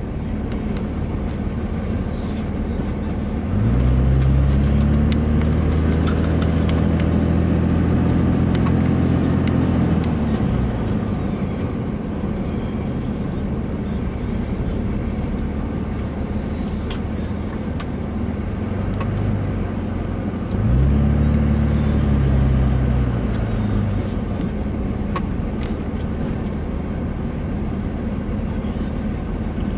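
Car engine and road noise from inside the cabin while driving. The engine pulls harder and rises in pitch as the car accelerates, about three and a half seconds in and again about twenty-one seconds in, then settles back.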